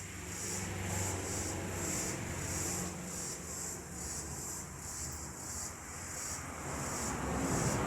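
Outdoor ambience: a high chirring that pulses about twice a second over a low steady rumble.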